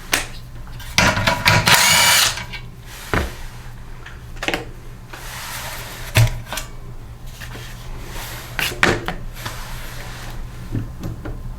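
A power driver whirs for a little over a second, backing out the 8 mm bolt that holds the dipstick tube on the engine, followed by scattered metallic clicks and knocks of tools and parts.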